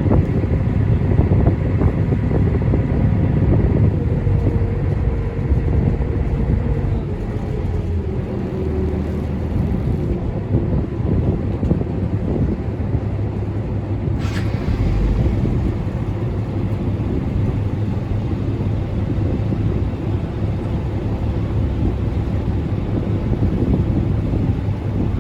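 Engine of the small Onomichi Channel ferry, running with a steady low rumble. Its tone drops a little about seven seconds in, and a single sharp knock comes about halfway through.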